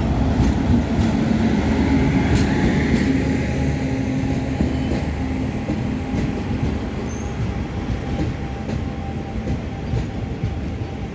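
A passenger train hauled by a WAP-7 electric locomotive runs past close by, locomotive first and then its coaches. It makes a steady, heavy rumble of wheels on rails, with a low steady hum during the first half, and grows slightly quieter as the coaches roll by.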